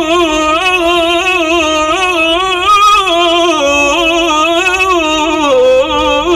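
A solo male voice chanting an Islamic devotional ibtihal, drawing one phrase out into long melismatic notes with quick wavering ornaments. The line holds high at first, then steps down lower about halfway through and again near the end.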